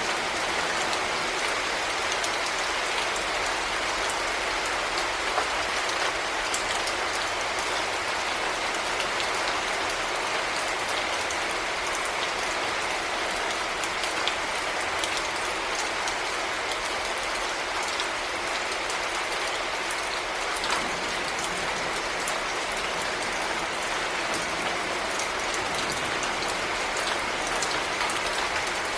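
Heavy rain falling steadily, a dense even hiss with scattered sharp drop impacts standing out.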